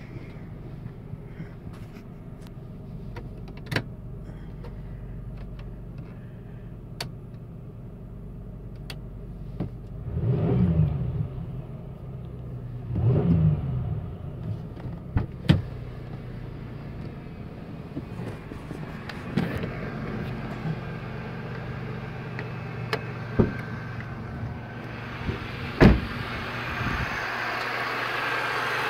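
Supercharged 3.8-litre V6 (3800 Series II) of a 2004 Chevrolet Impala SS idling steadily, heard from inside the cabin, with the revs briefly rising and falling twice, about ten and thirteen seconds in. A few sharp clicks are scattered through it. Near the end the engine sound gets louder and hissier, heard from the open engine bay.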